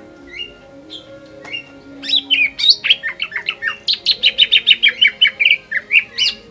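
Cucak ijo (greater green leafbird) singing. A few short, separate chirps come first, then from about two seconds in a loud, fast run of sharp notes follows at several a second and breaks off abruptly at the end.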